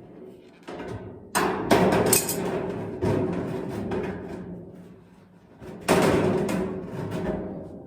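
Hammer blows on sheet-metal ductwork, struck to seat the duct corners: a quick cluster of strikes in the first three seconds and another near six seconds, each ringing out and dying away slowly.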